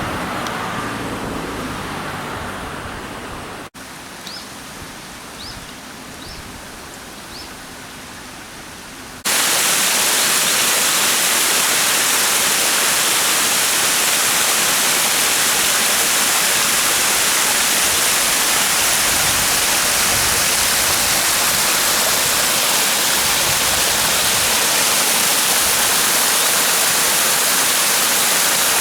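Small waterfall fed by the overflowing Gozensui well, running full with snowmelt: a steady, loud rush of falling water. The first stretch is quieter, with four short high chirps a few seconds in, before the full rush cuts in suddenly about nine seconds in.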